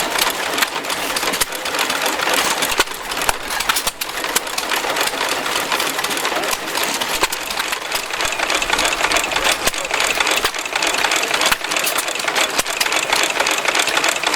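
A small machine running with a rapid, steady clatter.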